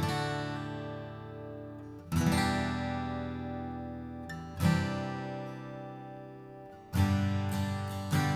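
Alvarez Yairi DYM60HD dreadnought acoustic guitar, with Honduran mahogany back and sides, strummed in full chords. There are four chords about two and a half seconds apart, each left to ring and fade.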